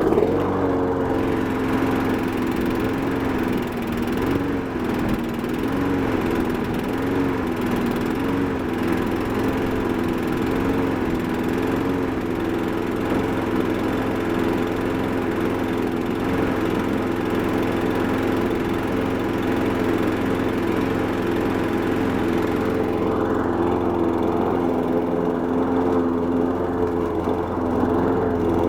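Toro push mower's small engine running just after a cold start on the primer bulb. Its pitch wavers slowly and evenly for the first several seconds, then settles to a steady run, with a slight change in tone near the end.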